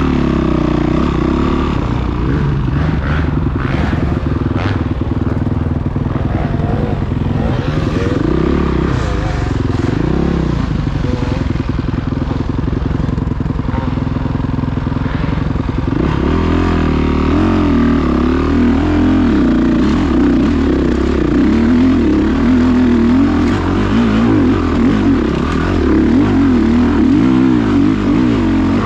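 Dirt bike engines running and revving, the engine note wavering up and down. About sixteen seconds in, the engine sound changes to a different, steadier-pitched note.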